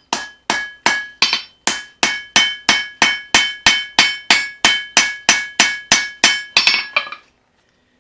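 A hand hammer striking hot leaf-spring steel on an anvil in steady forging blows, about three a second, each with a bright metallic ring. The blows stop about seven seconds in.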